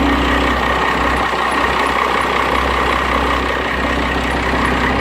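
A 1997 Dodge's 12-valve Cummins 5.9 L inline-six diesel idling steadily through a straight-piped 4-inch exhaust, shortly after a cold start.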